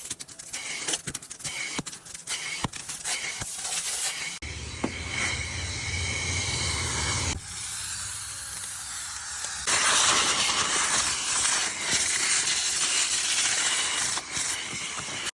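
Vacuum cleaner hose being used to clean out a car's interior: a few clicks and knocks of handling, then the vacuum running as a steady rushing hiss, growing much louder about ten seconds in.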